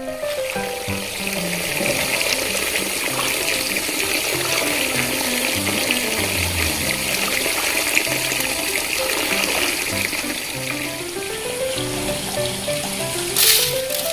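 Water running steadily from a tap into a sink, with background music playing over it and a brief louder splash near the end.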